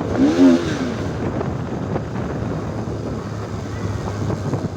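Wind rushing over the microphone while riding a 2024 Kawasaki Ninja ZX10R, with its inline-four engine running steadily underneath. There is a short pitched tone that rises and falls in the first half-second.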